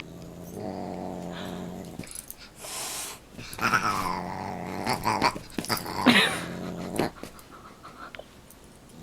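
A dog growling in spells, with a couple of louder, higher calls that rise and fall in pitch.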